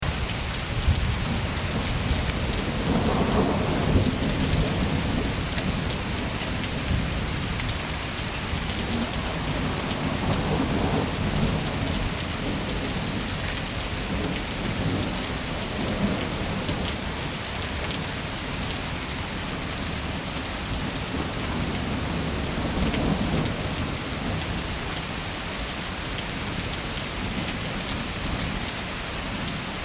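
Steady heavy rain with low rumbles of thunder swelling several times.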